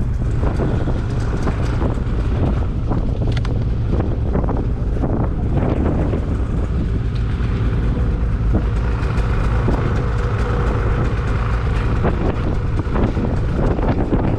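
Snowmobile engine idling steadily, with scattered light knocks and clicks over it.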